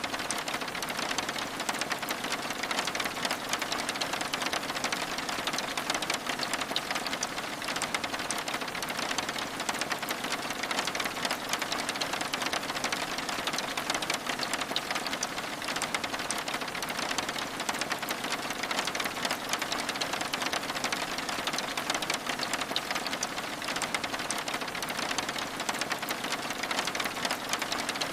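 Steady rain, a dense even hiss full of small drops ticking, unchanging throughout.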